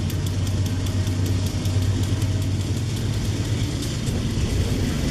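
Freight train cars rolling past close by: a steady rumble of steel wheels on rail, with regular wheel clicks fading out in the first second.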